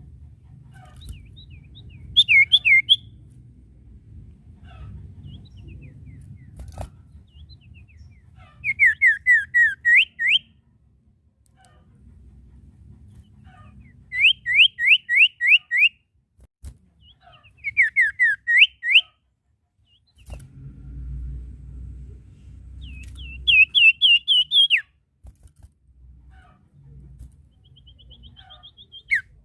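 Common iora (sirtu, cipoh) calling: five bouts of rapid whistled notes, each a quick series of short sweeping whistles, with pauses between bouts.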